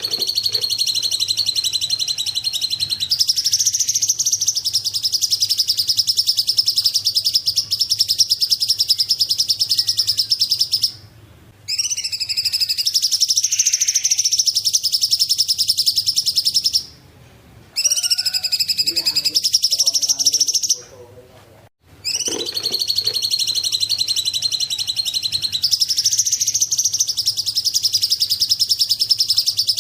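A cungkok songbird singing long, rapid, high-pitched trills, each phrase running several seconds, with short breaks about 11, 17 and 21 seconds in. A faint low hum lies underneath.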